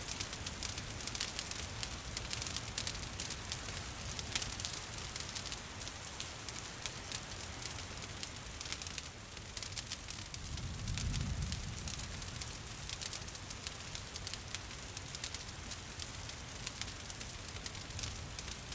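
Wood fire crackling with many small snaps and pops over a steady patter of rain. A soft low rumble swells briefly a little after halfway through.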